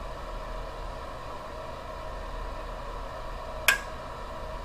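Steady mechanical hum with a faint high tone, and one sharp click near the end.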